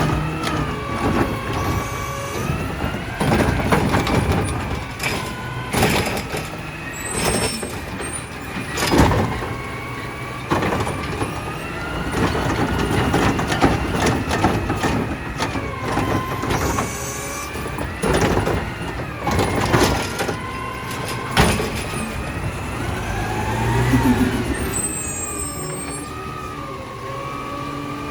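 Side-loader garbage truck at work: its diesel engine revving with a whining tone that rises and falls, broken by repeated sharp bangs and clanks and the hiss of air brakes.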